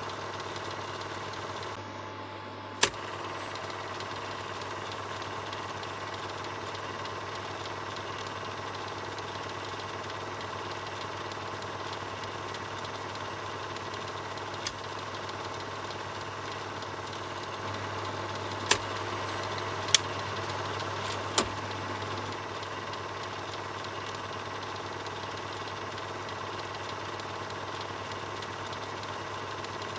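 Film projector running, a steady mechanical whirr with a constant hum. A few sharp clicks stand out, one about three seconds in and several between about 15 and 21 seconds in.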